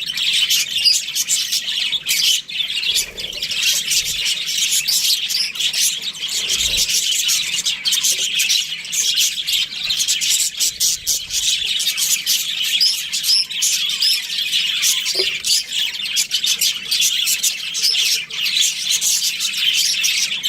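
Budgerigars chirping and warbling in continuous, busy chatter, full of quick clicks and short tweets.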